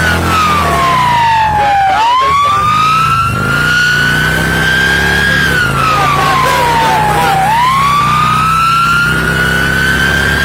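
Police siren sounding a slow wail, its pitch sliding down and back up about every five and a half seconds, over a steady vehicle engine hum.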